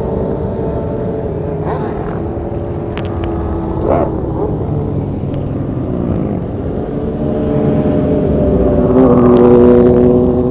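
A crowd of motorcycle engines running together, several with loud aftermarket exhausts, with short revs rising and falling now and then and a louder bike passing close near the end.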